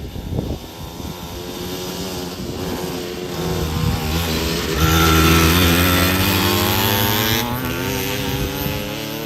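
Kawasaki KMX 125 single-cylinder two-stroke dirt bike engine revving up under way, loudest a little past the middle, then easing off with a slowly falling pitch. A low rumble of wind on the microphone comes at the very start.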